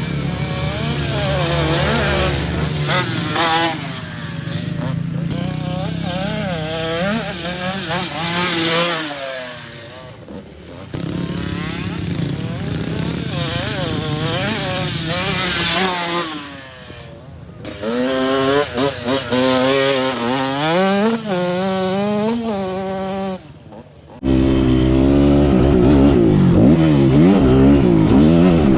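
Motocross dirt bike engine revving up and down again and again as the throttle is worked, dropping away briefly a few times. About 24 seconds in, the sound cuts suddenly to a louder, deeper engine.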